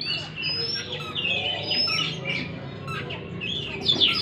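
Oriental magpie-robin (kacer) singing a varied, continuous run of clear whistles, rising and falling sweeps and short trills: a lure song meant to prompt a silent kacer to sing. A low steady hum lies underneath.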